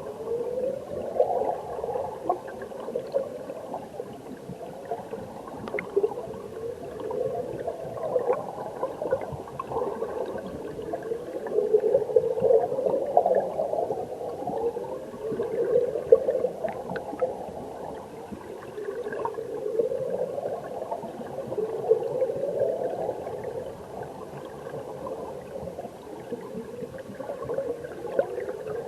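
Mountain stream water heard underwater: a steady bubbling, gurgling rush that swells in rising surges every two to three seconds.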